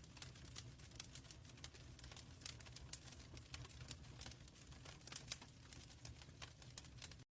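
Wood fire crackling in a fireplace: frequent irregular snaps and pops over a soft, steady low rumble of the flames.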